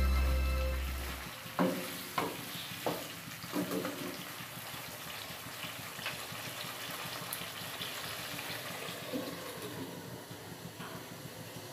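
Flat beans and potatoes sizzling in a frying pan, with a wooden spatula knocking against the pan several times in the first few seconds as they are stirred.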